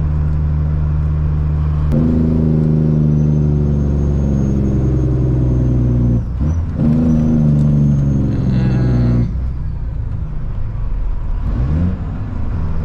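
Caterpillar C-15 diesel engine of a Kenworth truck running, pulling harder from about two seconds in, with a short break around six seconds like a gear change, then easing off near nine seconds. A thin high whistle rides over the engine while it pulls.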